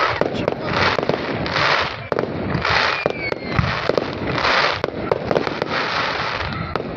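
Fireworks display going off: a dense run of sharp bangs and crackling, with hissing bursts about once a second and a faint whistle about three seconds in.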